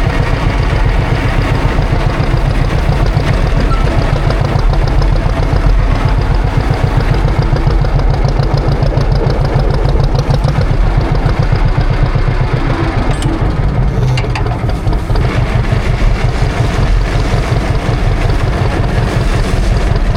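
John Deere tractor engine running steadily with an even rapid pulsing, easing off slightly for a moment past the middle.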